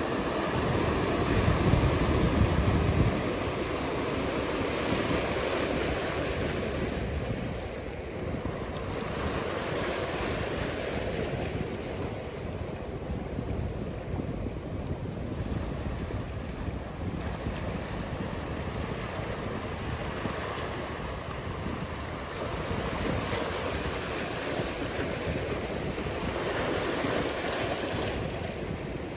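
Ocean surf: waves breaking and washing in, with wind, loudest and deepest in the first three seconds.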